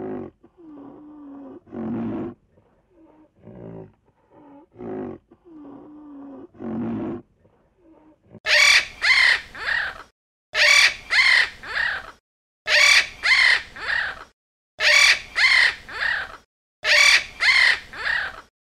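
Animal calls: first a run of low-pitched calls, then, about halfway through, much louder harsh caw-like calls that come in bursts of three or four, a burst about every two seconds.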